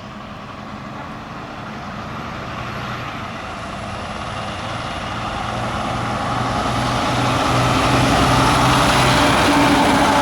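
Fire truck approaching, its engine and road noise growing steadily louder to a peak near the end, with a pulsing low engine note.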